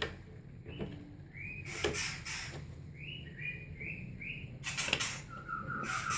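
Shama chicks chirping: short rising-and-falling chirps, with a quick run of four or five about three seconds in, among a few sharp clicks or knocks. A longer steady note starts near the end.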